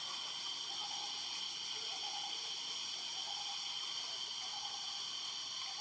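Steady, high-pitched insect drone with a few faint chirps beneath it.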